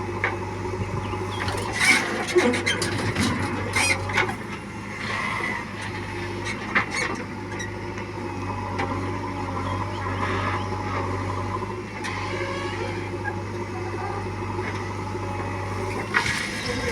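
Heavy diesel machinery running at a steady speed, with scattered sharp clanks and knocks.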